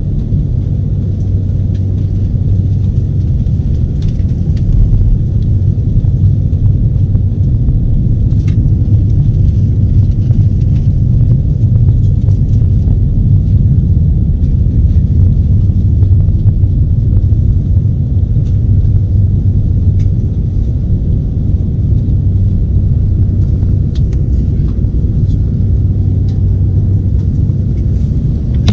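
Steady, loud low rumble of a jet airliner's cabin noise, the engines and airflow heard from inside the passenger cabin, with a few faint clicks.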